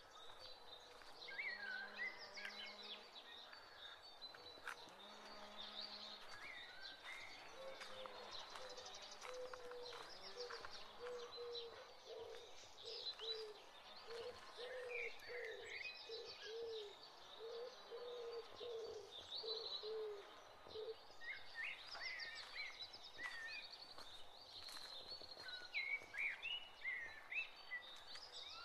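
Birds chirping and calling. About eight seconds in, a lower call starts repeating at about one note a second and stops a little after twenty seconds.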